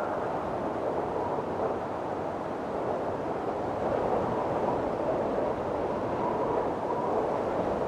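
Windstorm gusting steadily, a dense rushing noise that swells a little now and then, with a faint thin whistle running through it at times.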